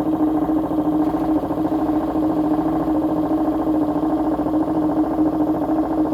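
A 10 kg washing machine on its spin cycle, the drum spinning at a steady speed with a loud, even droning hum. The load is slightly unbalanced.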